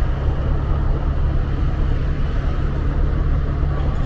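Motorbike engine running at a steady low hum while riding, with wind and road noise on the microphone.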